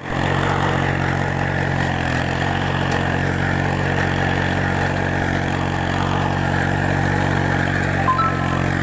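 Small engine of a mini tractor running steadily at an even speed, with a brief squeak about eight seconds in.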